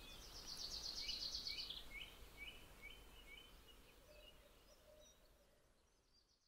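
Faint outdoor ambience with a bird singing: a fast high trill, then a run of short, evenly spaced chirps, all fading out to nothing near the end.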